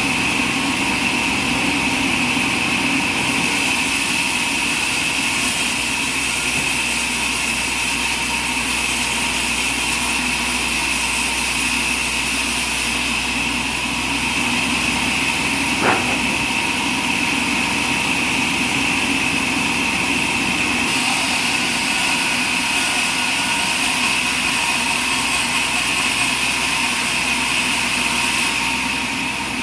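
Sawmill machinery running steadily with a constant high whine and a low hum, with stretches of extra hiss; one sharp click about halfway through.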